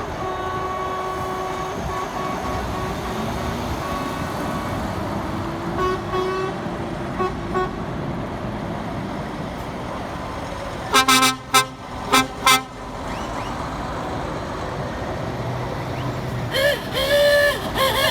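Trucks driving past over steady road traffic noise, sounding their horns: faint toots early on, then four loud short blasts a little past halfway, and a longer horn with a wavering pitch near the end.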